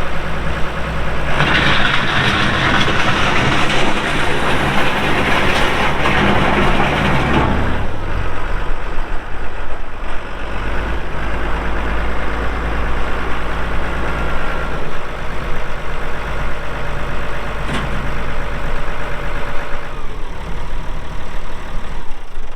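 2002 Challenger MT535 tractor's diesel engine running. From just over a second in it runs much louder for about six seconds, then settles back to a steadier, quieter run, with a single click about eighteen seconds in.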